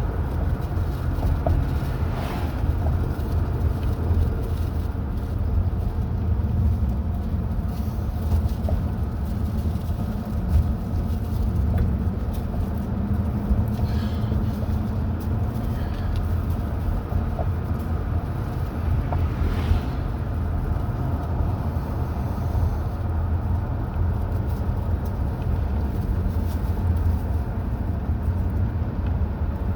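A car driving at a steady speed: a constant low rumble of engine and tyre noise on the road.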